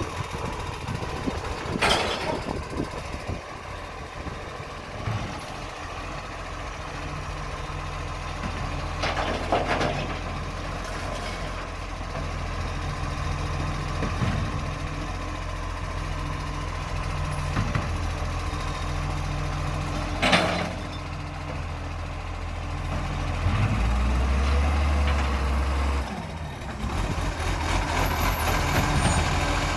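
Recycling garbage truck's diesel engine idling, with three short bursts of air hiss. Near the end the engine revs up for a couple of seconds, then settles back.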